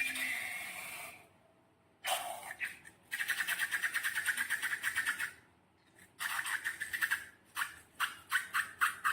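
Slime being squished by hand: short wet squelches, a fast run of crackling pops for about two seconds, then a quickening string of separate squelching pops near the end.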